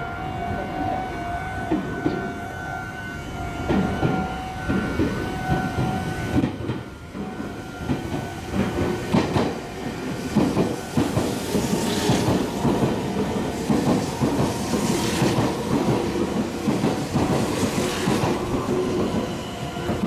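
A Meitetsu electric train running through the station at speed without stopping. Its wheels clack rhythmically over the rail joints, getting louder from about four seconds in and carrying on as the cars pass, until near the end.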